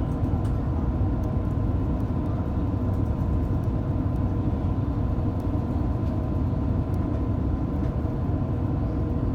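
Steady low rumble of airliner cabin noise in an Airbus A350 powered by Rolls-Royce Trent XWB engines, even throughout, with two faint steady hums above it.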